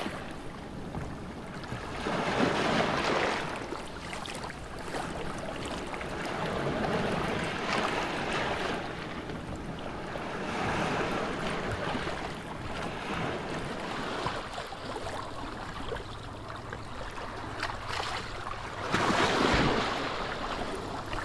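Surf: waves washing in and falling back, swelling every few seconds, with the loudest wave near the end.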